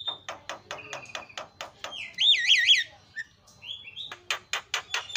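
Javan myna singing: quick runs of harsh, clicking notes at several a second with a short steady high whistle at the start. About two seconds in comes the loudest part, a whistle that wavers up and down three times, then a short pause before the rapid clicking notes start again.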